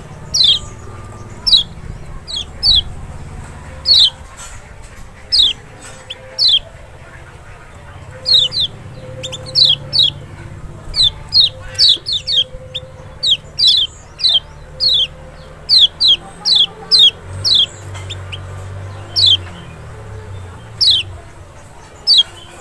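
Kecial (Lombok white-eye, Zosterops chloris) calling: short, sharp whistled notes that drop in pitch, repeated one to three a second, often in quick pairs, at an irregular pace.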